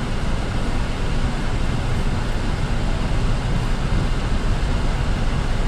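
Steady road and engine noise heard from inside a moving car's cabin, a continuous low rumble with no distinct events.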